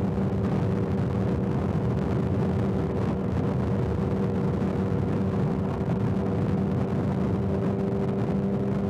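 Motorcycle engine running at a steady highway cruise, its pitch holding level, under a constant rush of wind and road noise.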